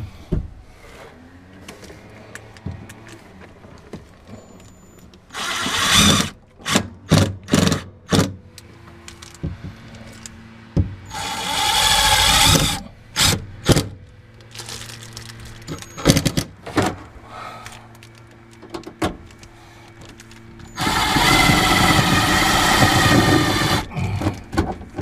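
Work sounds from fitting sheet metal: several bursts of a power tool, the longest near the end lasting about three seconds, with a run of sharp knocks and clatter between them over a steady low hum.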